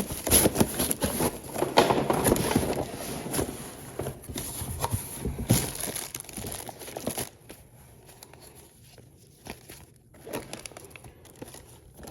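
Rummaging through stock: plastic packaging rustling and boxes and cases knocking as they are handled and moved, busy for about seven seconds, then quieter with a few scattered knocks.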